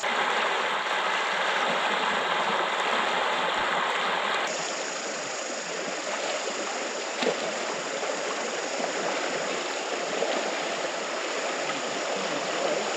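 River water flowing in a steady rush, its sound shifting abruptly about four and a half seconds in.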